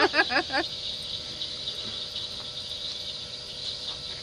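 Steady high-pitched drone of an insect chorus. In the first half-second a quick run of rapid, voice-like calls breaks off.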